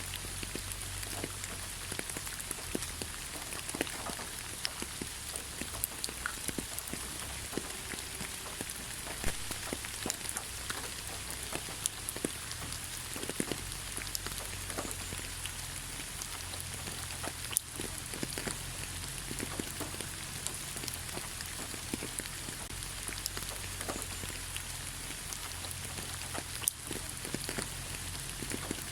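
Gentle rain falling on leaves: a steady patter with many scattered drop ticks, a few of them louder, over a faint low rumble.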